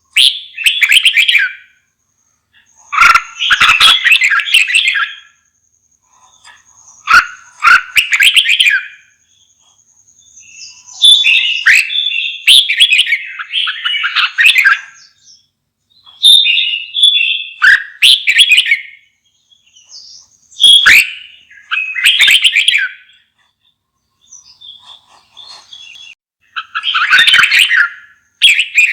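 Red-whiskered bulbul singing: about seven short phrases of rich, quickly varying warbling, each a second or a few seconds long, with brief pauses between them.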